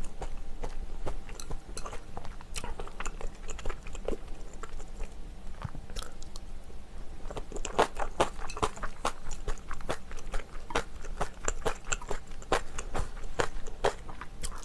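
Close-miked chewing of spicy braised chicken: wet, sticky mouth clicks and smacks, busiest around eight to ten seconds in.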